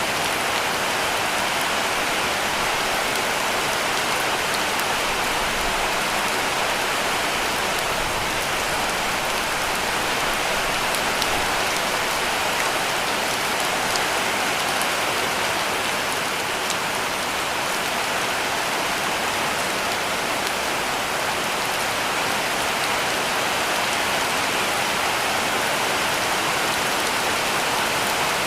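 Heavy rain falling steadily on a cabin roof: a dense, even hiss with scattered drop ticks.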